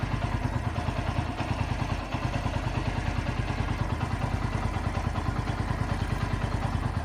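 Bajaj Pulsar NS125 single-cylinder engine idling with a steady, even beat. It carries a tappet (valve-clearance) clatter, which the owner hears as tappet noise at 9,300 km.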